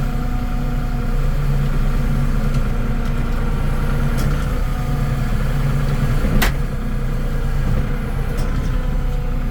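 Kubota L3560 tractor's diesel engine running steadily, with a sharp snap about six seconds in as the hydraulic tree shear cuts through two saplings at once.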